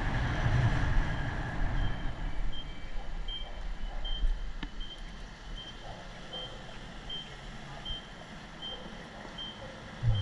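Vehicle reversing alarm beeping at a steady pace, a short high beep about every three-quarters of a second, starting about two seconds in. It sits over low rumbling road and wind noise that is loudest at first and then eases.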